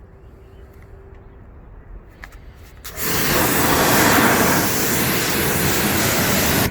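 Pressure washer short gun spraying: the water jet from the Ryobi 2400 W pressure washer comes on abruptly about three seconds in as a loud, steady hiss, then cuts off sharply. Before that there is only a low hum and a faint click.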